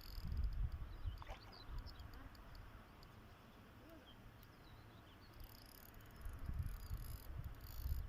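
Outdoor ambience at a pond: a low, uneven rumble of wind on the microphone with small birds chirping now and then, and a high chirring coming in about two-thirds of the way through.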